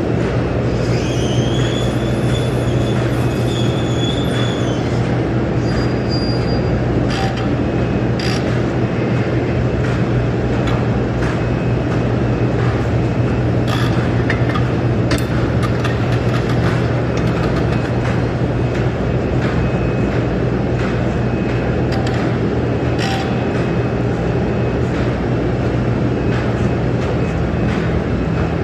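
Steady, loud machine noise with a constant low hum, scattered sharp clicks and knocks, and a few brief high-pitched tones in the first few seconds.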